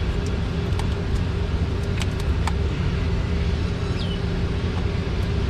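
Steady low mechanical rumble and hum of background machinery, with a few light clicks and taps from engine parts being handled as the spark-plug tubes are pulled out.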